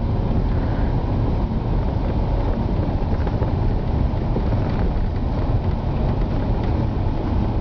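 Steady low rumble of a car being driven: engine and road noise, unchanging throughout.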